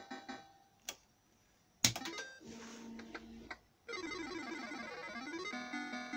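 Reel Crazy fruit machine playing its electronic sound effects: a few sharp clicks, a short hiss, then a fast sweep of rising and falling bleeps running into a repeating beeped tune.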